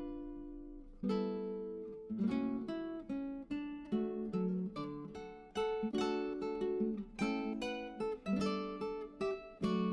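Background music: an acoustic guitar plucking and strumming chords, each note sharp at the start and fading away.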